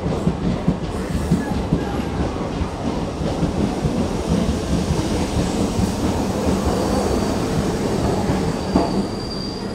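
DEMU diesel multiple-unit train rolling into a station, its wheels clattering and knocking over the rail joints with a steady low rumble. From about two thirds of the way in, a thin, high wheel or brake squeal sets in as it slows.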